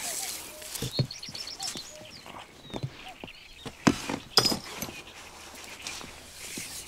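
A bird calling outdoors, with a quick run of about six short high notes a little after a second in. Two sharp knocks near the middle are the loudest sounds.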